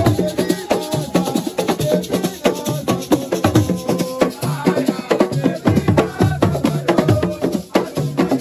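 Assiko music: fast, dense drumming with rattles keeping a busy, unbroken rhythm.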